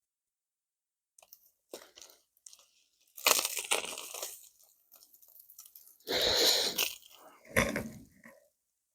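Three short bursts of crunching, rustling noise, with a few faint clicks between them.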